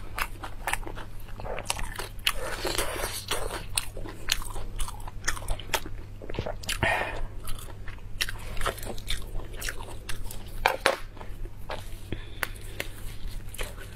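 Close-miked eating: chewing and biting with many short wet mouth clicks and crunches. Twice, a few seconds in and again about seven seconds in, crisp lettuce leaves rustle and crinkle as they are handled and folded around the food.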